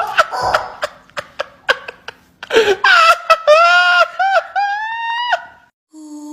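A few sharp taps or clicks, then a run of high-pitched, voice-like cries with bending, upward-sliding pitch that stop suddenly near the end.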